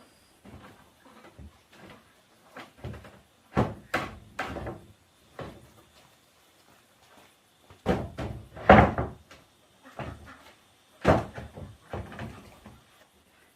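Irregular knocks, bumps and short scrapes of objects being handled and set down, with louder thuds about four, nine and eleven seconds in.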